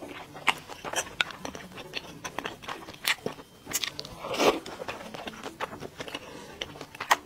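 A person chewing and eating spicy boiled meat slices and rice, with many small wet mouth clicks and smacks. A louder short breathy sound comes about four and a half seconds in.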